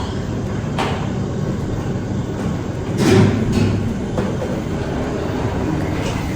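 Steady engine and road noise of a vehicle moving through traffic, with a brief louder swell about three seconds in.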